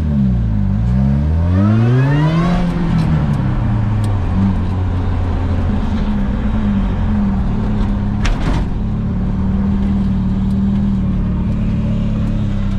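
Supercharged 2.0-litre Ecotec LSJ four-cylinder in a rat rod under way. Through a manual gear change the revs drop, then climb for about two seconds, and the engine settles into a steady run. There is a brief knock about eight seconds in.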